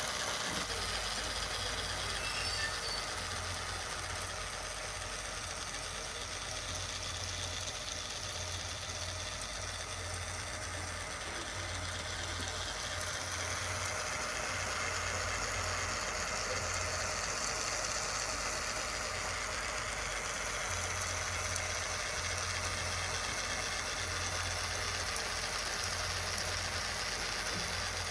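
Small electric motor of a homemade water-pump model running steadily, with a low hum that swells and fades.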